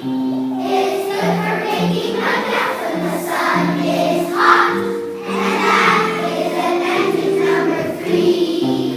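A group of children singing a song together in chorus, holding sung notes that move from pitch to pitch in phrases.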